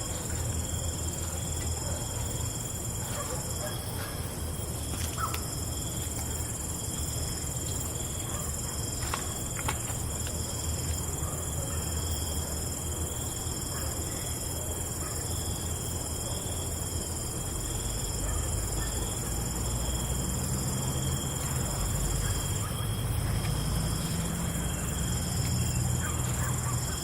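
Night insect chorus, crickets trilling steadily at several high pitches, over a low rumble that swells slightly in the second half.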